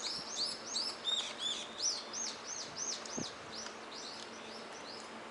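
A bird singing a rapid series of repeated arched chirps, about three to four a second, fading out near the end.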